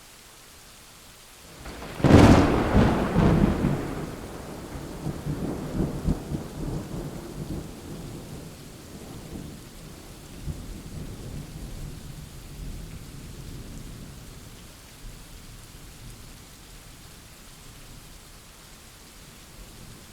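Steady rain with a thunderclap: a sudden loud crack about two seconds in, then a long low rumble that crackles and slowly dies away under the rain.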